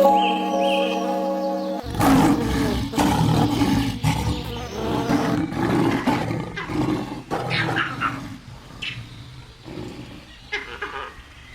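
A short stretch of music stops abruptly about two seconds in and gives way to loud, irregular animal calls, which grow quieter toward the end.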